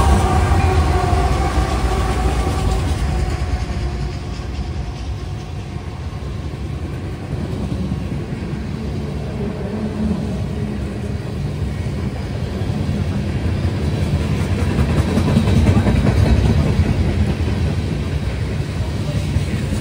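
CSX freight train passing. The diesel-electric locomotives' engine sound fades in the first few seconds, then a long string of tank cars rolls by with a steady low rumble of wheels on the rails, which swells again near the end.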